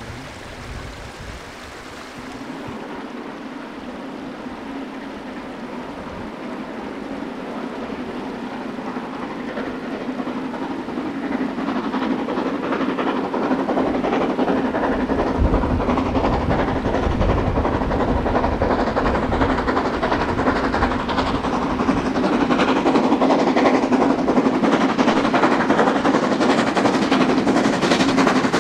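Narrow-gauge steam locomotive working hard uphill, growing steadily louder as it approaches, with rapid sharp exhaust beats over a steady hum.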